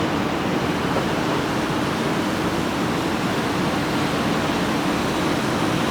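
Steady outdoor ambient rushing noise with a faint low hum underneath, holding an even level throughout.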